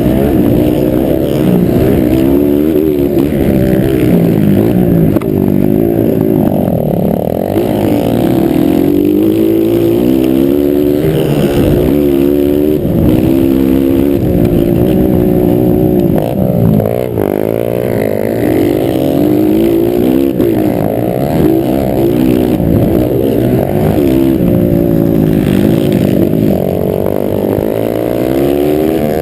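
Several motocross motorcycle engines racing, revving up and dropping back again and again as the riders work through the gears and the throttle.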